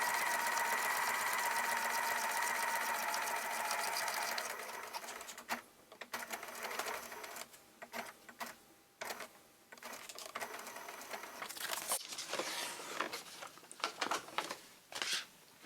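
Electric sewing machine running steadily, stitching round the edge of a paper journal page, then stopping about four and a half seconds in. After that come scattered rustling and clicking as the paper and lace are handled.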